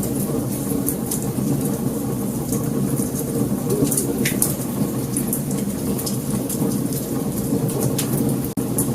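Wood fire burning: a steady low rumble of flames with irregular sharp crackles and pops from the burning logs. The sound cuts out for an instant near the end.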